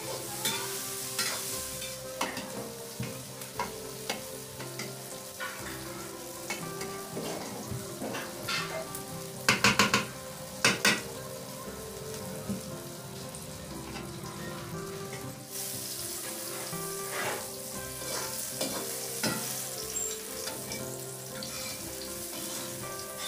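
Chopped taro leaf stalks sizzling as they fry in a steel kadhai, stirred with a metal spatula that scrapes and clicks against the pan. A quick run of loud knocks comes about ten seconds in.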